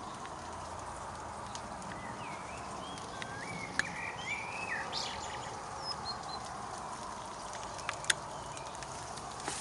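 Birds chirping outdoors: a handful of short, wavering calls clustered around the middle, over a steady outdoor hiss, with a sharp click about eight seconds in.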